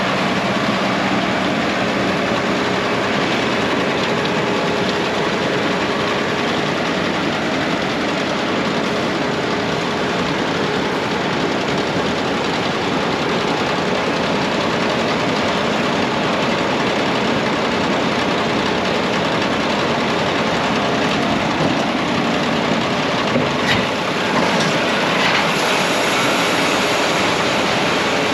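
Combine harvester running steadily, a continuous even machine drone with a faint steady hum, and a few light clicks near the end.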